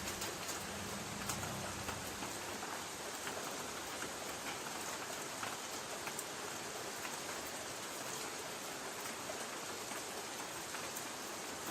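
Light rain pattering on a tin roof: a steady hiss with many scattered sharp drop taps. A faint low rumble fades out in the first second or so.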